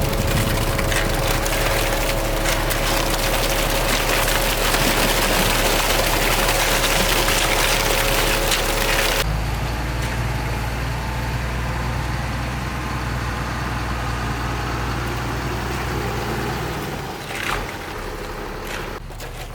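An engine running steadily under a loud, dense rushing noise. About nine seconds in the sound changes abruptly to a lower, steady engine hum, which drops away a couple of seconds before the end.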